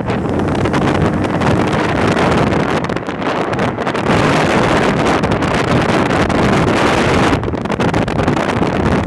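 Monster truck engine running loudly during a ride, with wind buffeting the microphone.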